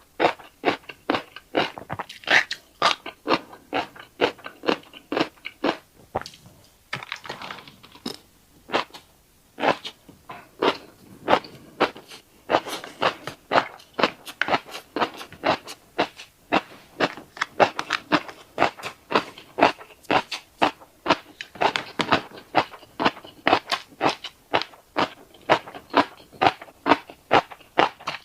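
A person chewing mouthfuls of fish roe (black caviar, salmon roe and green roe) close to the microphone: a steady run of sharp, crisp chewing clicks, about three a second, with a softer, quieter spell about a quarter of the way in.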